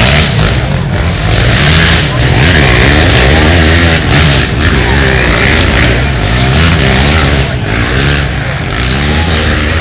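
Racing ATV engines revving hard, several at once, their pitch rising and falling again and again as the riders accelerate and shift. Loud throughout.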